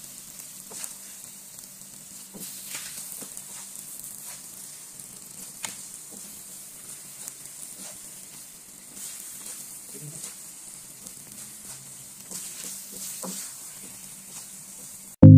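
Glutinous rice in coconut milk sizzling as it cooks down in a pan, stirred with a wooden spatula that gives scattered light scrapes and taps. Music starts again right at the end.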